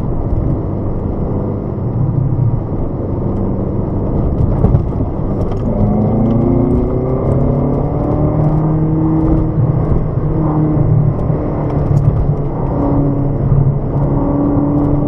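Car engine under power on a track, its note rising as it accelerates out of a corner about six seconds in, then holding steady, over road and wind rumble.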